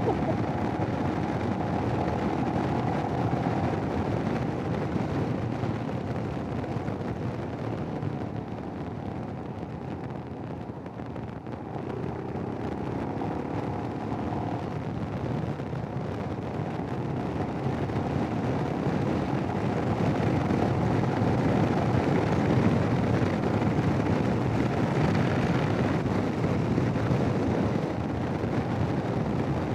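Royal Enfield Himalayan's single-cylinder engine running under way, with wind and road noise on the helmet intercom microphone. The noise dips about a third of the way in and swells again later, as riding speed changes.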